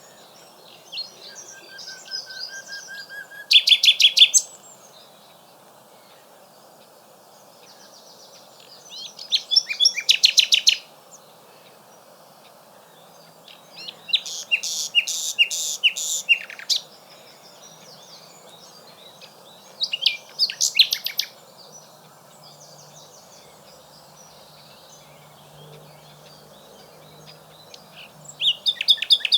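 Common nightingale singing in separate phrases a few seconds apart, made of rapid repeated notes and trills, with one long pure whistled note near the start. Faint steady background noise underneath.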